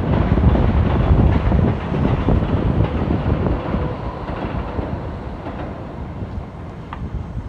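A loud, low vehicle rumble that slowly fades away over several seconds.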